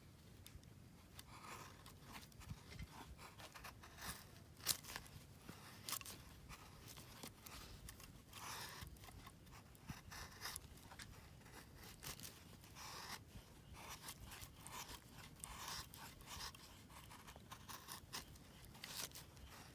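Faint rustling and scraping with many scattered light clicks and a few sharper ticks.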